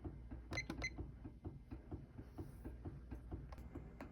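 Aircool 36-inch industrial ceiling fan running on low speed: a steady low motor hum with a regular soft ticking, about four ticks a second, and a few sharper clicks.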